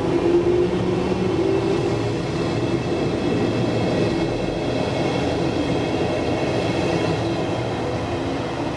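Electric commuter train of the Roslagsbanan pulling away along the platform: a steady rumble of wheels on rail with a faint whine from its motors.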